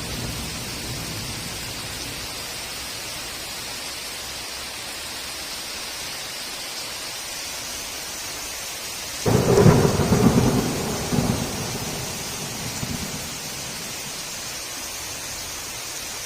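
Heavy rain falling steadily, with a low rumble of thunder fading away at the start. About nine seconds in, a sudden loud clap of thunder rumbles off over a few seconds.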